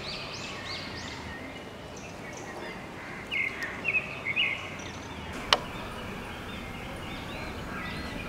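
Outdoor ambience of birds chirping over steady background noise, with a run of louder calls about three to four and a half seconds in and a single sharp click a little after halfway.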